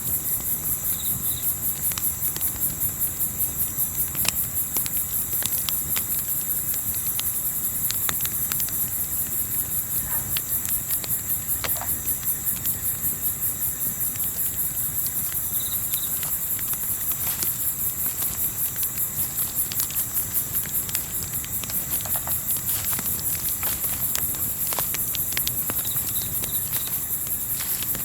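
Crickets chirping in a fast, even pulse, with scattered sharp crackles and pops from a campfire over a low steady rush of wind.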